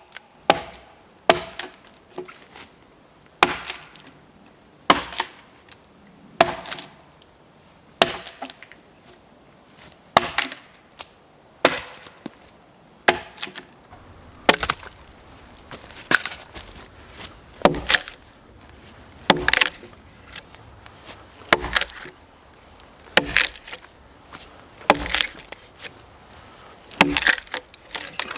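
An axe chopping wood: sharp, separate blows into the wood, roughly one every second or two, some coming in quick pairs.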